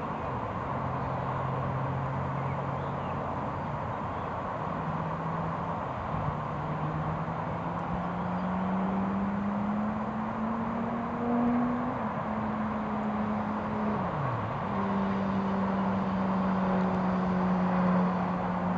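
Engine drone, a low hum that slowly rises and falls in pitch and dips sharply a few times, over a constant rushing noise.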